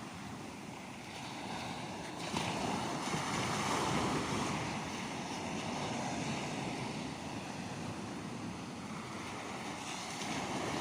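Mediterranean surf washing on the shore, a wave surging in louder about two seconds in and easing back to a steady wash.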